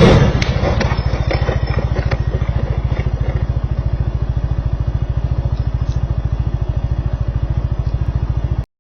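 Vehicle collision: a loud crash impact at the very start, followed by a couple of seconds of clattering debris. A steady low, rapidly pulsing thrum runs underneath and cuts off abruptly near the end.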